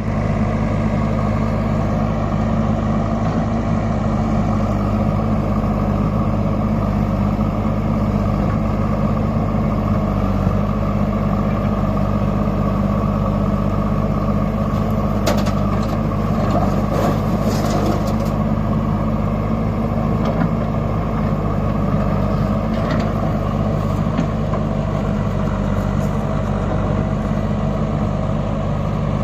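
Large diesel engine running at a steady speed, with a few brief knocks or clanks about halfway through.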